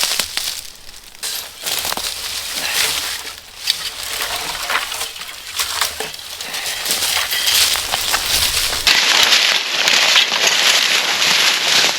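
Dead hardwood being handled and broken up: irregular crunching and cracking of dry wood, with a sudden change in the sound about three-quarters of the way through.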